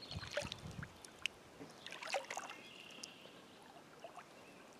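Kayak paddle strokes, faint: the blade dipping in and out of the lake with small splashes, drips and light knocks. A faint thin high tone sounds about two seconds in.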